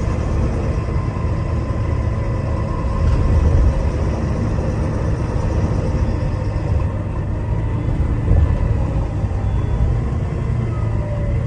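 Diesel engine and running gear of a Wright Eclipse Gemini 2 double-decker bus under way, heard from inside the bus: a steady, loud low rumble with a faint whine over it, swelling briefly twice.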